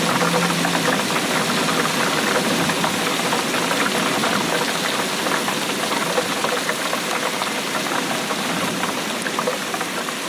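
Steady heavy rainfall: a dense, even hiss of rain with many small drop ticks pattering irregularly throughout.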